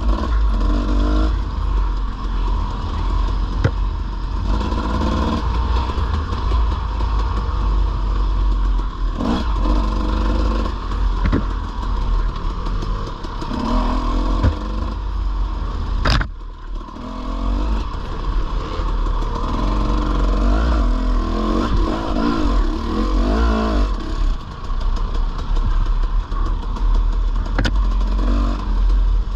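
Dirt bike engine revving up and down as it is ridden along a trail, with the clatter of the bike over rough ground and a few sharp knocks. About halfway through the engine briefly drops off, then picks up again.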